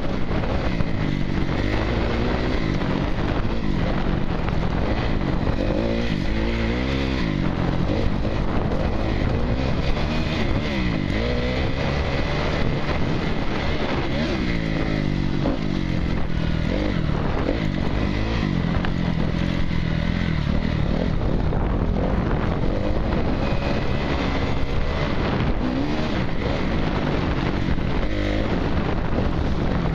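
Honda CRF250R dirt bike's single-cylinder four-stroke engine revving up and falling back again and again as the bike is ridden, over a steady rushing noise.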